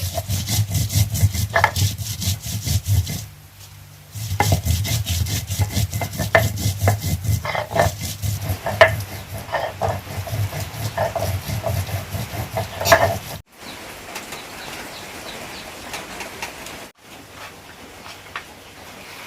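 Repeated scraping and rubbing strokes of a kitchen utensil working food, with a brief pause about three seconds in. About two-thirds of the way through, the strokes stop abruptly and give way to a quieter, steady hiss.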